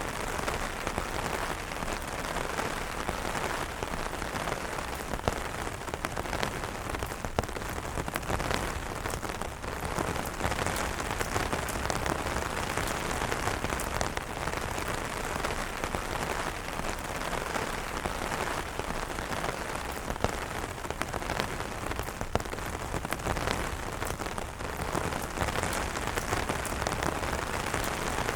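Steady rain falling on umbrellas, a dense, even hiss made of many separate drop hits, with no gaps or swells.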